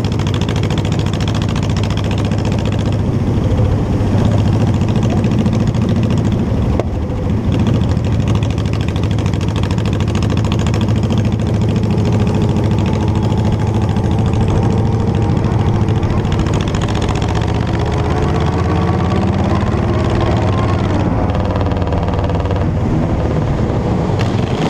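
Motorcycle engine running steadily while riding, its pitch shifting up and down in the last several seconds as the revs change.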